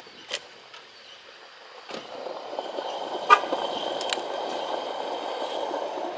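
Gas pump dispensing fuel into a car: after a quiet pause, a steady rush of flow with a faint whine starts about two seconds in, and there is a sharp click a second later. The pump keeps going and then stopping.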